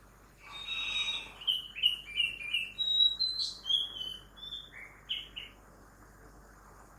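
A songbird singing a phrase of short, clear whistled notes, with a rising whistle near the middle. The song starts about half a second in and stops a little before the end, over a faint steady hiss of background city noise.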